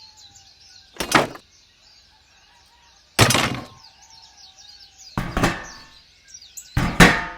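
Four separate knocks or clunks, roughly two seconds apart, over faint chirping birdsong.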